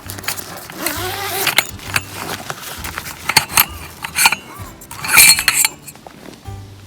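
Metal objects clinking and rattling: a run of sharp clinks with brief ringing, thickest about five seconds in, over background music.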